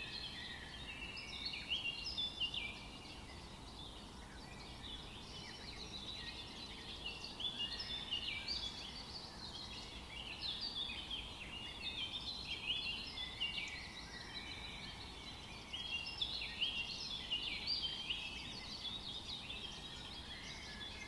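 Small birds chirping and twittering in a continuous chorus of short, quick calls, faint and high-pitched.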